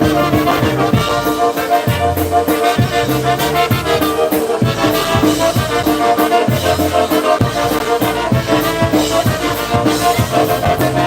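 Live polka band playing, with brass carrying the tune over a steady, even drum beat.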